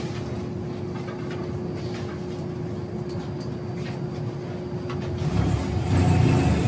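Inside a moving Enoden (Enoshima Electric Railway) train: a steady running rumble with a constant hum over it. The rumble grows louder about five seconds in.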